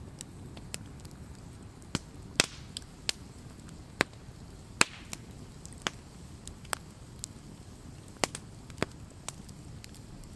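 Wood campfire crackling: irregular sharp pops and snaps over a low steady rumble of the burning fire, with a few louder snaps, two of them trailing a brief hiss.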